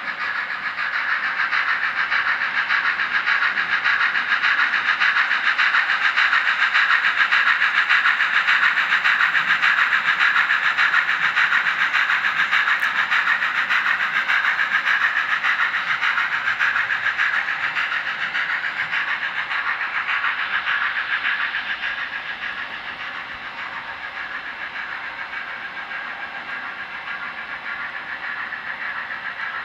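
Sound decoder of a Blackstone K-27 HOn3 model steam locomotive playing steam-engine running sounds through its small speaker, mostly in the middle and upper range with little bass. It grows louder over the first few seconds and drops back about twenty seconds in.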